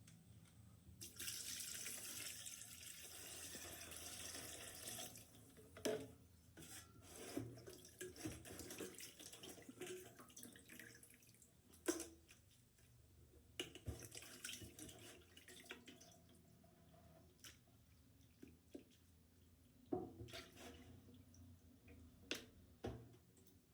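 Water runs for about four seconds, then comes a string of scattered clinks, knocks and drips, as of food or utensils being washed and handled in water.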